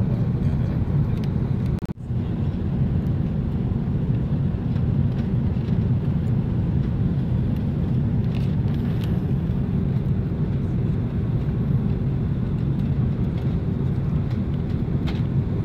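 Airbus A330 cabin noise: a steady low rumble of engines and airflow heard from inside the cabin. It breaks off briefly about two seconds in.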